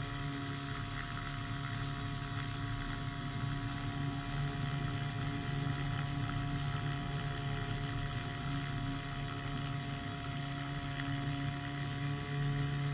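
Powered hang glider engine and propeller running steadily in flight, holding an even pitch.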